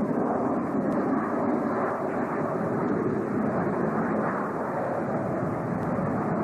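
Jet noise from an F-117 Nighthawk's F404 turbofan engines, a steady even rush without sharp changes.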